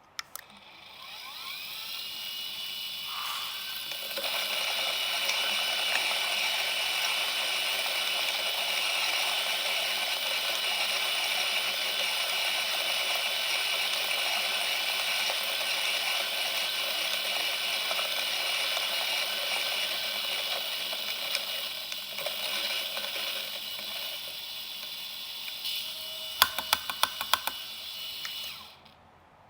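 Option-O Lagom Casa electric burr coffee grinder. The motor spins up with a rising whine, then grinds 15 g of beans for drip in a steady, dense grinding noise for about 20 seconds. Near the end the grinding thins out as the beans run through, a few sharp clicks sound, and the motor stops.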